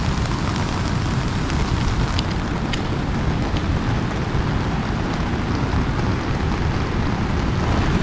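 Steady rain falling on an umbrella over a deep, even rushing noise, with a few single drops ticking sharply on the canopy about two to three seconds in.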